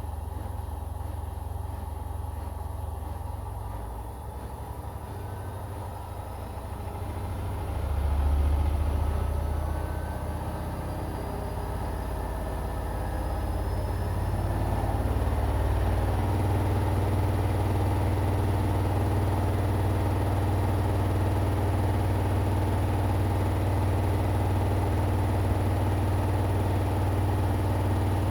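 Washing machine running with a steady low motor hum. Partway through a faint whine rises and the drum speeds up, then it settles into a louder, even drone at speed.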